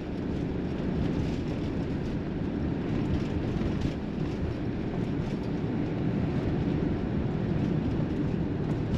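Steady engine and road rumble heard from inside a moving vehicle's cabin.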